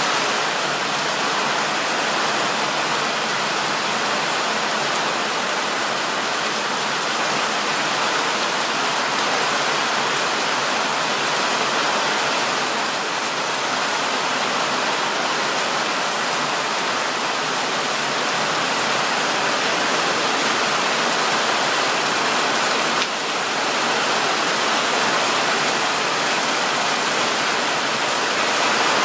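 Steady heavy rain falling, a dense even hiss of water with no separate drops standing out.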